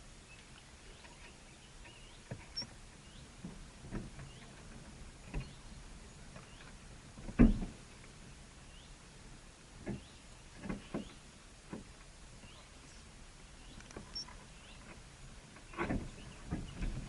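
Small birds' faint short high chirps scattered among irregular knocks and scrapes, with one louder knock about seven and a half seconds in and a cluster of knocks near the end.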